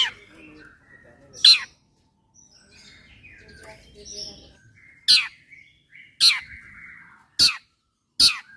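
Long-tailed shrike (cendet) calling: loud, sharp notes that sweep down in pitch, six in all, coming closer together in the second half, with soft chattering twitters in between.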